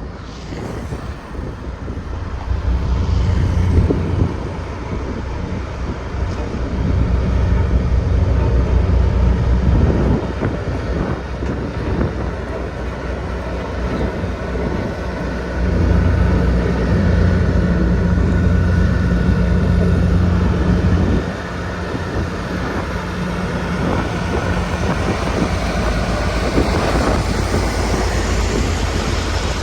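Sakai road roller's diesel engine running. Its deep rumble grows louder for a few seconds at a time, three times, and settles back in between.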